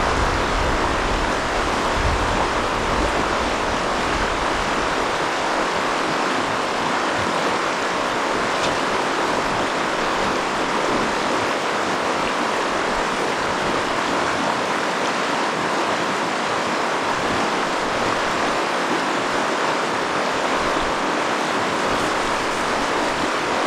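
Steady rush of river rapids, a constant hiss of white water. Low wind rumble on the microphone in the first few seconds.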